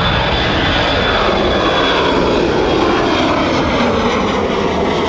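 Boeing 737's twin jet engines at takeoff thrust as the aircraft rolls down the runway and lifts off, a loud steady jet noise with tones that slide down in pitch as it passes.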